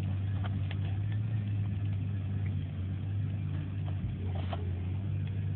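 Steady low hum with a few faint, scattered crackles from a small campfire burning freshly added dry leaves.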